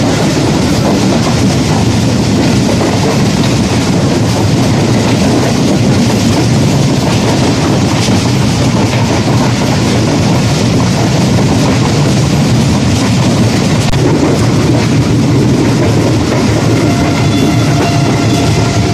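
Pakistan Railways passenger train running at speed, heard from inside a coach by an open door: a steady, loud rumble and clatter of wheels on the track, with rushing air.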